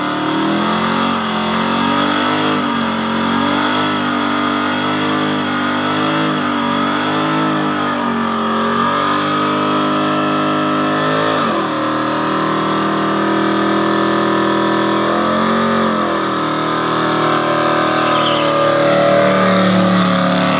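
Car doing a burnout: engine held at high revs with the wheels spinning, the pitch wavering up and down. The revs drop sharply about halfway through, dip again briefly, then climb and grow louder near the end.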